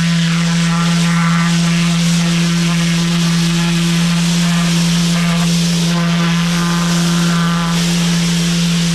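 Pressure washer running with a steady hum while its turbo nozzle sprays water with a hiss over concrete patio slabs. A higher whine comes in twice, about a second in and again from about five to seven and a half seconds.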